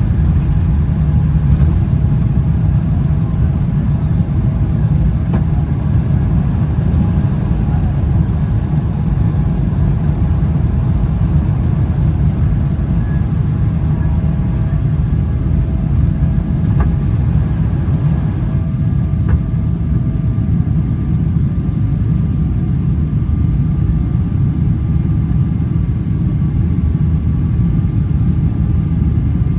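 Boeing 777-300ER's GE90-115B turbofans at takeoff thrust during the initial climb, heard inside the cabin as a loud, steady rumble with a faint engine whine above it.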